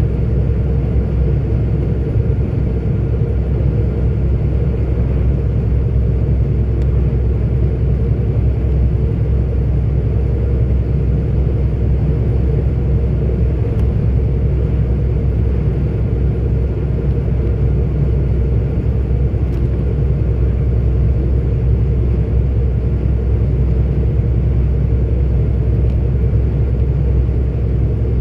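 Steady low drone of a 44-ton articulated truck cruising on the road, engine and tyre rumble heard from inside the cab, even throughout with no gear changes or other events.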